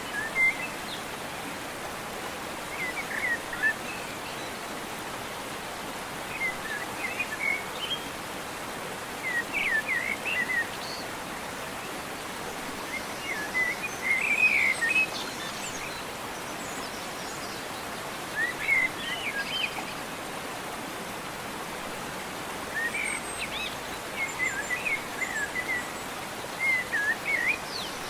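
A bird singing short, quick chirping phrases, repeated every few seconds, over a steady background hiss.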